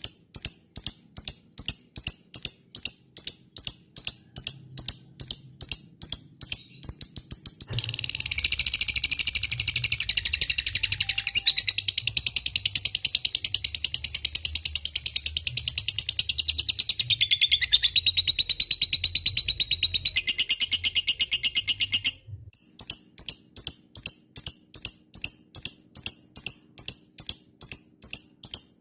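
Lovebird calling: sharp chirps repeated evenly about two to three times a second. About eight seconds in, they run into a long, fast, unbroken chatter, the 'ngekek'. This lasts about fourteen seconds, then breaks off and gives way to the spaced chirps again.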